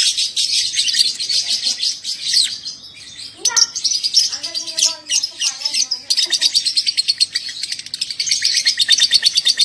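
Lovebird 'ngekek': long runs of rapid, sharp, high chattering chirps. A break about midway holds a few lower, squawkier notes before the fast chatter resumes for the last few seconds.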